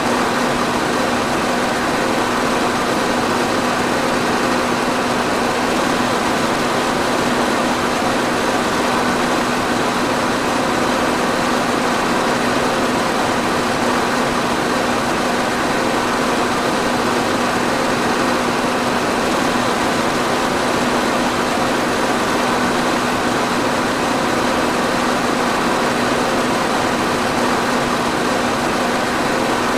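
Electric fan running steadily: an even rush of air with a constant motor hum underneath.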